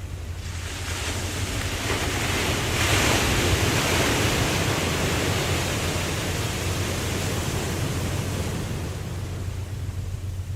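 Ocean wave breaking and washing up the beach, swelling to a peak about three seconds in and then fading, over a steady low rumble of surf.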